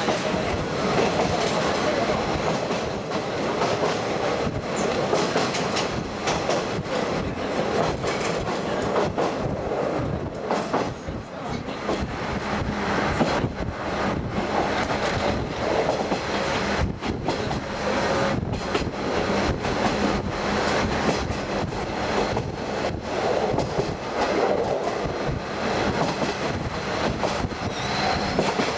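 Diesel railcar trolley train running along the line, heard from aboard an open-windowed observation car: a steady rumble of wheels on rail with frequent clicks from the rail joints.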